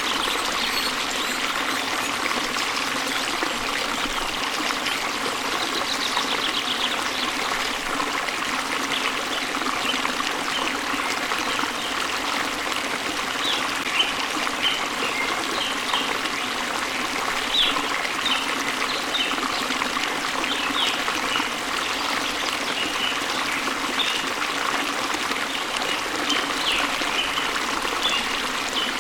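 Steady rush of a waterfall and flowing stream, with short, high bird chirps scattered over it, more of them in the second half.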